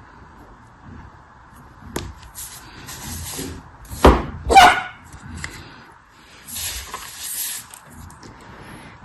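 Crunching and crackling of a brittle material being crushed or broken, with two loud sharp cracks just after four seconds in.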